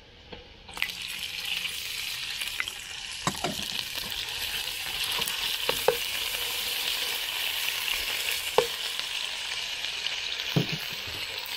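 Pork dropped into hot oil with browned ginger and garlic, sizzling in the pan: the sizzle starts suddenly about a second in and keeps going steadily. A few sharp knocks of a stirring utensil against the pan come through it.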